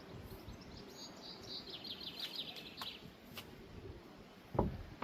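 A small songbird sings a quick trill of repeated high notes, slightly falling in pitch, over a low outdoor rumble; a dull thump comes near the end.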